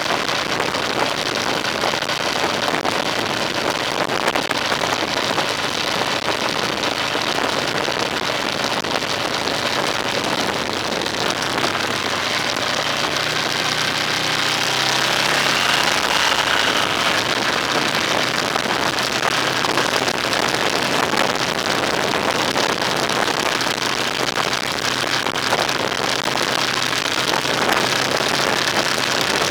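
A road vehicle driving, heard from on board: a steady hiss of wind and road noise, with an engine note that rises about halfway through and then holds steady.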